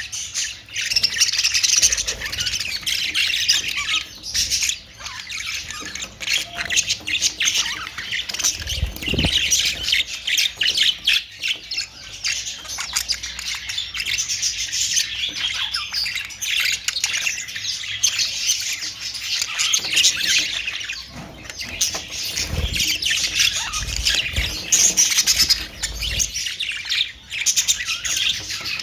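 Many Australian parrots (budgerigars) chattering and squawking continuously in a dense, high-pitched babble, with a few low bumps now and then.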